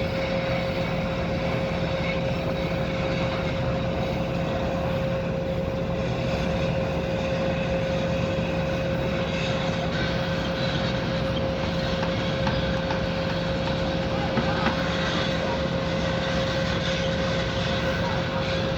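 Heavy machinery running steadily, with a constant whine over a low engine drone.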